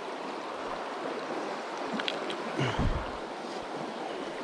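Small stream running steadily, its water rushing over the streambed, with a brief low bump a little past the middle.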